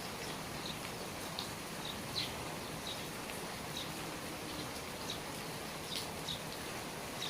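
Steady rain falling, a continuous hiss, with short high plinks of water dripping from the eaves at irregular intervals, about one or two a second.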